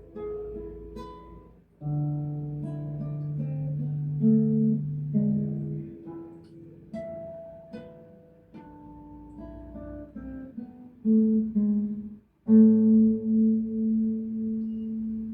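Acoustic guitar playing the instrumental outro of a song in single picked notes. After a brief gap about 12 seconds in, a final chord is struck and left ringing.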